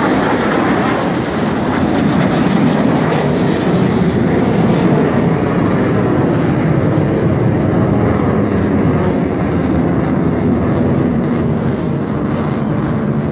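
Jet aircraft engine noise, loud and steady.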